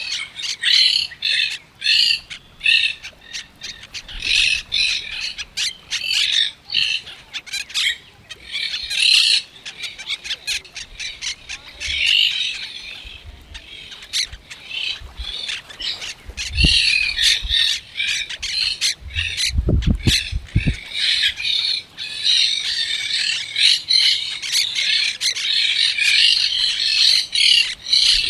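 Parrots squawking: a dense run of harsh, rapidly repeated calls, with a few brief low thumps about two-thirds of the way through.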